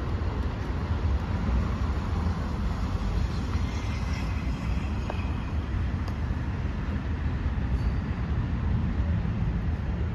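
Amtrak passenger train rolling past on elevated tracks: a steady low rumble of wheels and cars.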